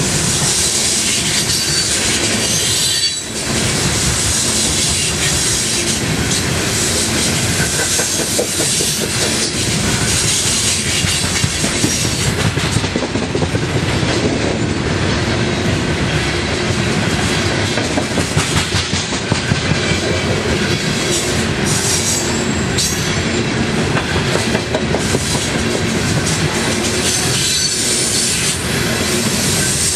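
Coal hopper cars of a long freight train rolling past: a steady, loud rumble of steel wheels on rail with a rapid clickety-clack of wheels over the rail joints.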